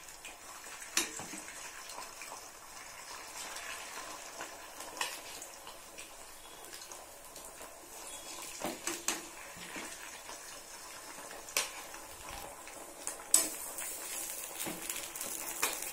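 Potato sticks frying in hot oil in a nonstick pan, a steady sizzle and bubbling. A steel spoon stirs them, clinking against the pan several times.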